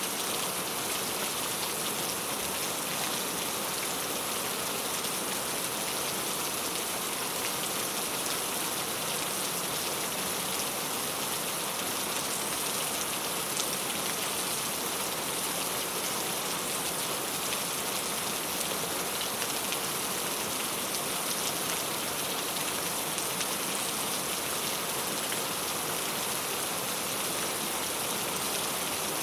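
Steady rain falling on a clay-tile roof: an even hiss of many small drops patters on the tiles without letup.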